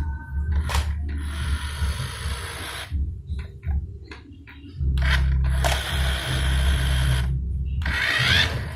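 Small electric motor and gears of a radio-controlled truck whirring in two runs of a couple of seconds each, with clicks and a rising whine near the end.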